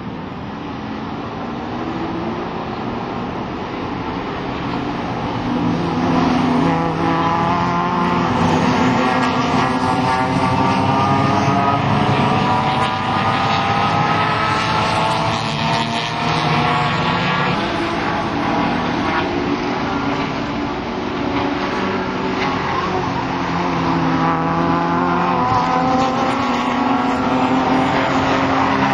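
BMW E30 race car engine at high revs under hard acceleration, its pitch climbing steadily. About seventeen seconds in the pitch drops sharply, then climbs again.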